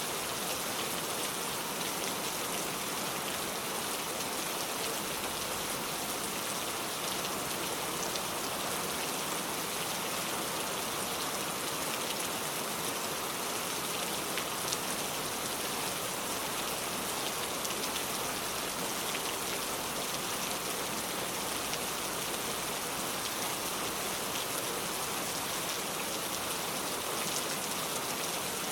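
Steady heavy rain falling on a surface, an even hiss with scattered individual drop taps.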